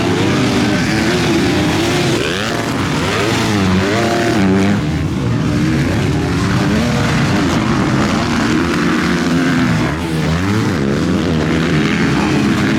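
Several motocross bikes racing at high revs, their engine notes climbing and dropping again and again as riders accelerate, shift and back off.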